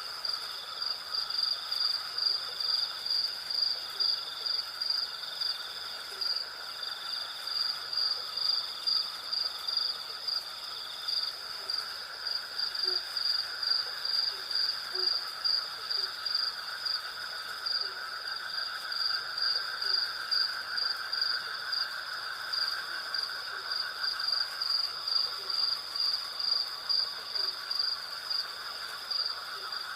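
Night insect chorus: crickets chirping in a steady, rhythmic high pulse over a continuous lower buzzing of cicadas. Faint, short low calls repeat at intervals underneath.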